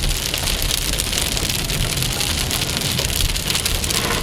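Heavy thunderstorm rain pelting down steadily in a dense patter, with a low rumble underneath.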